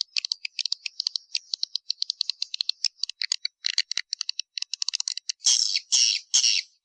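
Swiftlet calling track, the kind of call sound played to lure swiftlets: fast runs of dry, high clicking chirps, then about five and a half seconds in, three louder buzzy twitters in quick succession.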